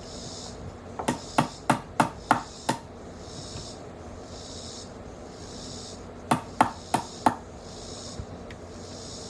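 Hammer driving nails into wood framing: a run of six quick strikes, about three a second, then four more strikes a few seconds later.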